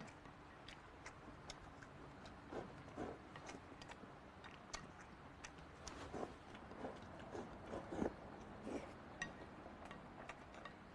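Quiet eating sounds: a person chewing braised pork intestines and rice, with scattered small clicks of chopsticks against a plate.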